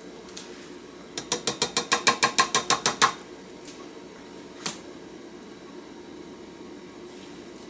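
A quick run of about fifteen sharp, ratchet-like mechanical clicks over about two seconds, growing louder, followed a moment later by one single click.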